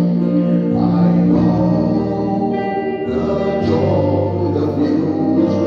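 Gospel worship music: a choir singing long held notes over instrumental backing with a steady bass line.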